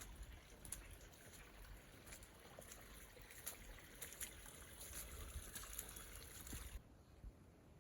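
Faint trickling water with scattered light drips. It drops abruptly quieter near the end.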